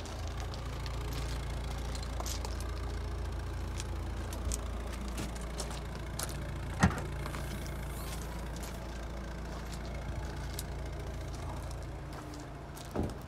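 A car engine idling steadily with a low, even hum. Small clicks and handling noises sit over it, with a sharp knock about seven seconds in and another thump near the end.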